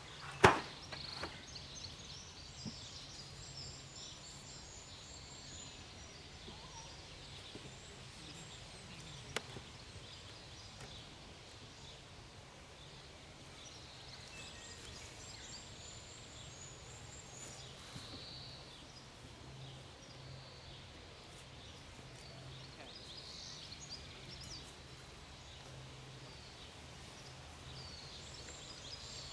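Quiet outdoor ambience: small birds chirping on and off over a faint steady low hum. A sharp knock sounds about half a second in, and a lighter click comes around nine seconds.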